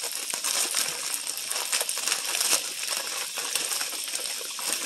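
Thin-sliced pork frying in a square copper-coloured skillet: a steady crackling sizzle.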